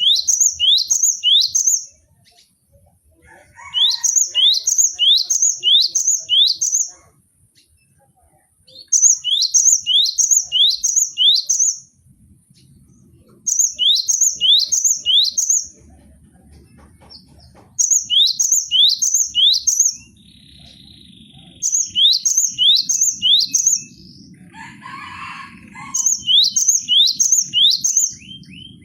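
Cinereous tit (gelatik batu) singing: repeated bouts of four or five quick, high whistled notes that each fall sharply in pitch, with pauses of about two seconds between bouts.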